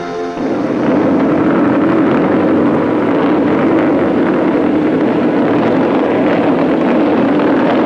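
Motorcycle engine running at a steady pitch, coming in about half a second in as music fades out.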